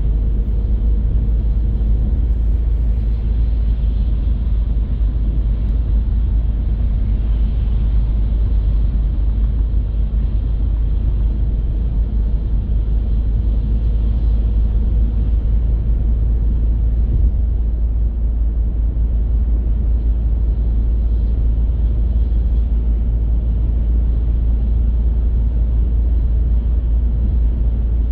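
Steady low rumble of a car driving on the road: tyre and engine noise, even throughout with no sudden events.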